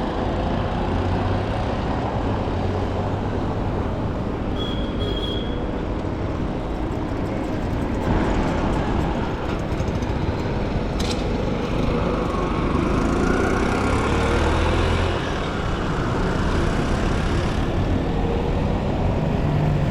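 City street traffic: vehicle engines running steadily in a continuous roadside din. A short high-pitched tone sounds briefly about five seconds in, and a sharp click comes near the middle.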